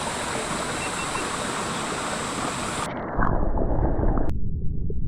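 Rushing creek water as a steady hiss. About three seconds in the sound turns muffled and low, a rumbling churn of water as heard underwater.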